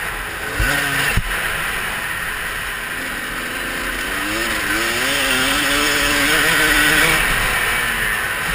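Motocross bike engine revving up and down as it is ridden, its pitch climbing and dropping with throttle and gear changes under a heavy rush of wind noise. It rises to its loudest about seven seconds in. Two short low thumps come about a second in.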